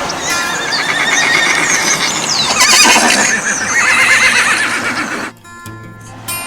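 A horse whinnying: a long, wavering, quavering call that cuts off suddenly about five seconds in.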